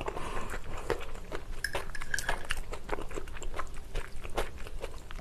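Close-miked chewing of soft pasta, with wet mouth clicks, and a metal fork scraping and clinking against a plate as spaghetti is twirled.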